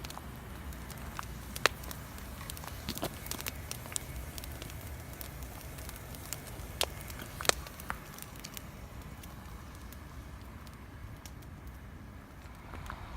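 Wood campfire crackling: scattered sharp pops over a low steady rumble, with two louder pops about one and a half seconds in and about seven and a half seconds in.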